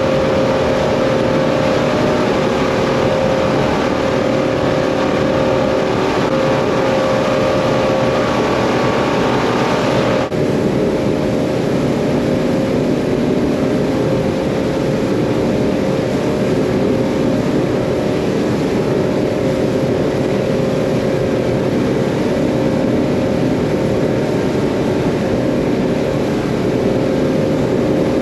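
Twin Yamaha F200 four-stroke outboard engines running steadily at cruise speed, with a steady hiss over the engine tone. About ten seconds in, the hiss abruptly drops and the sound carries on slightly duller.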